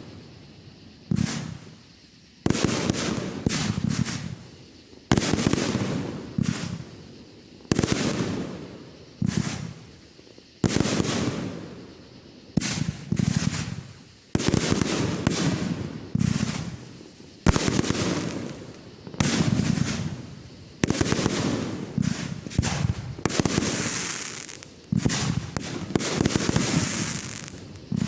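Aerial fireworks shells bursting in quick succession, a sharp bang every one to two seconds, each fading as it echoes away.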